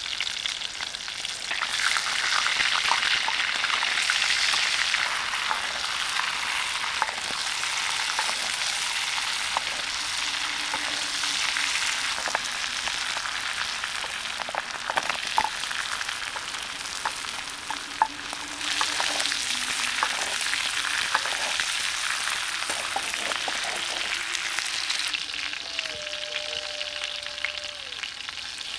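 Food frying over a campfire: a steady sizzle with many small scattered pops and crackles.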